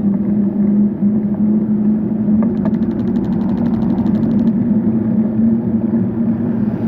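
Steady road-traffic noise with a vehicle engine droning at an even pitch. For about two seconds in the middle, a bicycle's freewheel ticks rapidly while the rider coasts.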